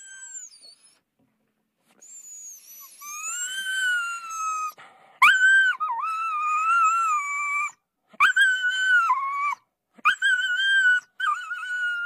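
Cartoon animal sound effect: a string of high-pitched whining calls, each held for one to two seconds with a wavering pitch, five in a row with short gaps between them.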